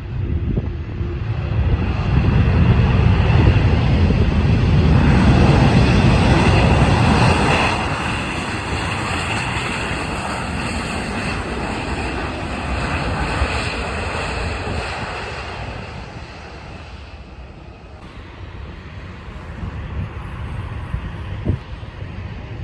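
Jet airliner passing low on final approach to land. The engine noise swells to its loudest a few seconds in, with a steady high whine over it, then fades away over the next several seconds.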